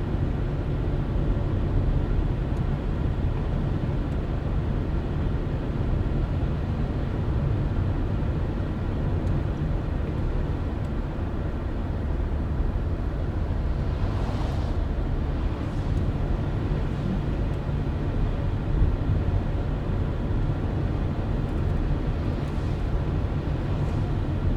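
Car driving at steady speed: a constant low road and engine rumble, with two brief hissing whooshes, about midway and near the end.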